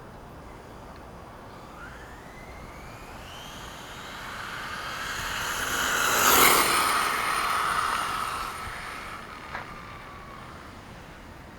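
Two-stroke gas engine of a 1/5-scale Redcat Rampage monster truck revving up as the truck drives, the pitch climbing over a couple of seconds and then holding while it grows loud, peaking a little past the middle and then fading away. A single sharp click near the end.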